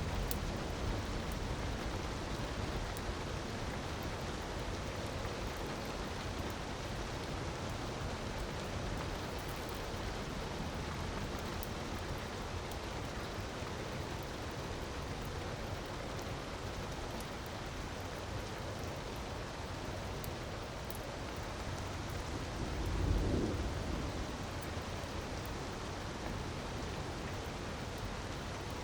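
Steady hiss of rushing water with faint, scattered crackles from a wood fire. About 23 seconds in, a low rumble swells and fades.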